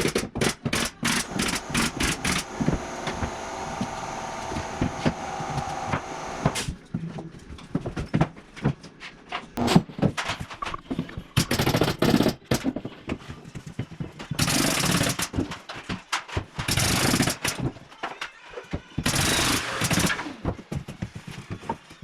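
Pneumatic nail gun firing in quick succession, several shots a second, for the first couple of seconds. A steadier tool sound follows, then a few scattered shots and four noisy bursts of about a second each.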